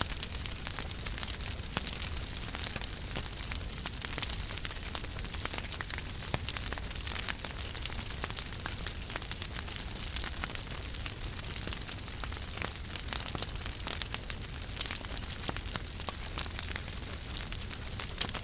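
Wood fire burning in a fireplace: steady hiss with continual small crackles and pops and a low rumble of the flames.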